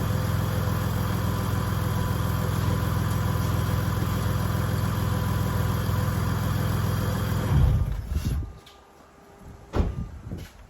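2009 Mitsubishi Outlander engine idling steadily, freshly run a few minutes after an oil change to circulate the new oil, then switched off about seven and a half seconds in. A few sharp knocks follow near the end.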